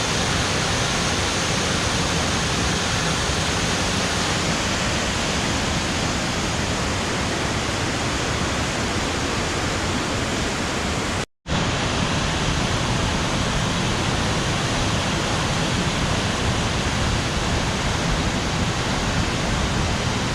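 Waterfall with water pouring and rushing, a steady, even noise. It drops out for an instant about eleven seconds in, then carries on unchanged.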